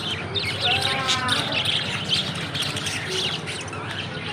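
A flock of caged parrots chirping and squawking over one another in rapid, overlapping calls, with one louder drawn-out call about a second in.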